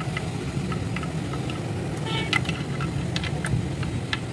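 Engine idling steadily with a low rumble, with scattered short clicks and ticks over it.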